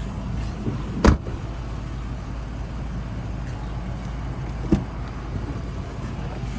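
A car running steadily with a low rumble, with two sharp knocks; the first and louder comes about a second in.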